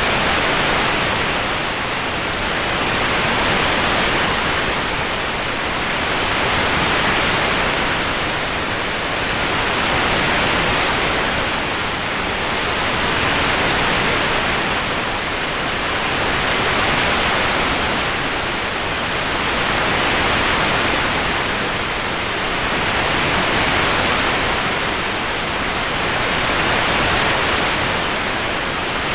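Steady rain ambience for a study timer: an even hiss of falling rain that swells and fades gently about every three and a half seconds.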